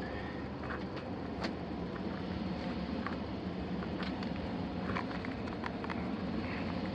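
Steady low rumbling hum with scattered light clicks and taps, as of someone moving across attic framing.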